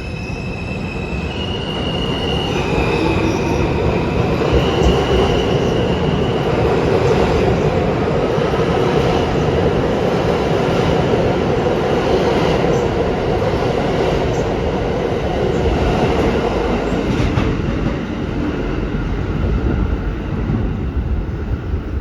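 New York City subway train running through the station with a steady, loud rumble of wheels and running gear and some wheel squeal. During the first several seconds an electric motor whine steps up and down in pitch every second or two.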